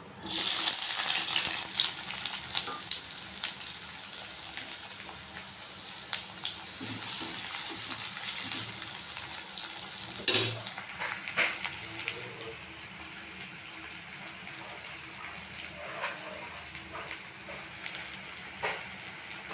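Sliced onions and green chillies hitting hot oil in a kadai: a sudden loud sizzle with crackling that settles into a steady fry. There is a sharp knock about ten seconds in.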